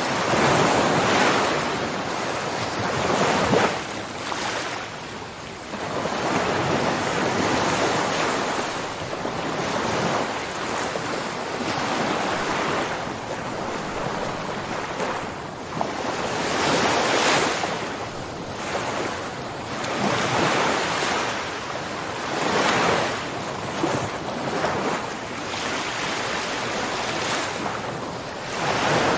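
Ocean waves breaking and washing in, each surge swelling and falling away every few seconds.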